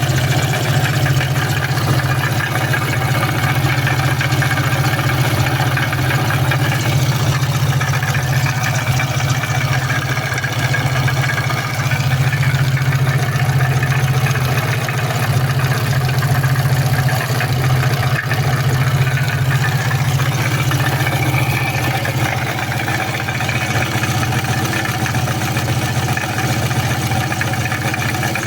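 VAZ-2114's 8-valve four-cylinder engine running steadily at idle, with a knock that the owner puts down to the water pump.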